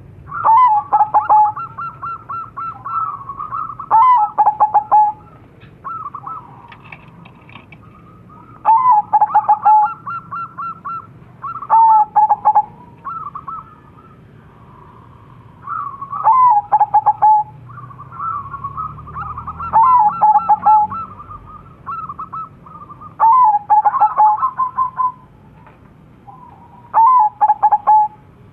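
Crossbred zebra doves (perkutut) cooing: phrases of rapid staccato coos that step between a higher and a lower note, repeated every few seconds.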